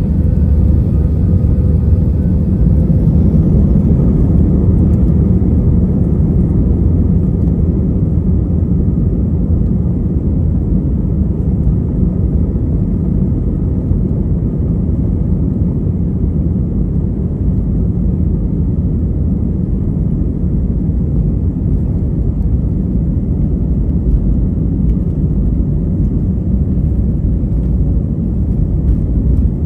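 Jet airliner's engines and airframe heard from inside the cabin during takeoff, a loud, steady low rumble, with a faint higher whine in the first few seconds that fades out.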